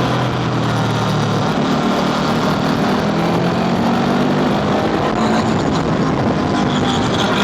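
Honda scooter engine running under way, its note shifting in pitch with the throttle, over a steady rushing noise.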